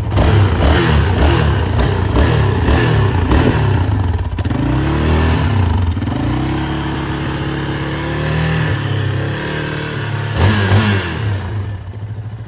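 Yamaha Raptor 700R SE quad's single-cylinder four-stroke engine revved through its stock exhaust with the baffle still in: a run of quick throttle blips, then a longer held rev that climbs slowly. A last sharp blip about ten seconds in, then it drops back toward idle near the end.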